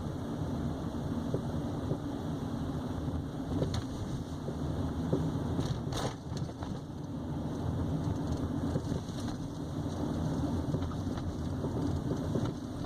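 Scattered knocks and metallic clunks from a Nissan Sentra B17's front suspension, the loudest about six seconds in, over a steady rumble of road noise while driving. This is a persistent front-right suspension fault that a dealer judged to need a new shock absorber.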